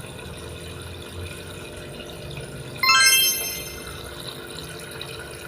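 Steady running water, like a small tap trickling. About three seconds in, a short, bright pitched tone sounds once; it is the loudest thing heard.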